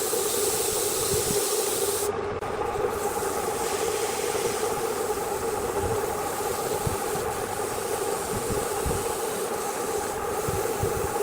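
Wood lathe running steadily with a steady hiss from a tool rubbing against the spinning wood, over a constant motor whine. The hiss thins briefly about two seconds in.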